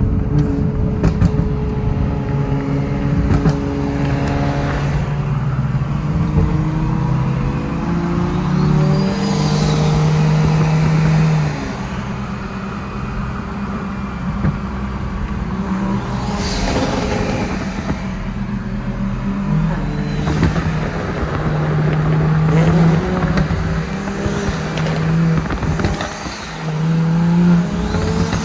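Turbocharged 700 wheel-horsepower Supra engine accelerating hard, its revs climbing and dropping back at each gear shift several times over.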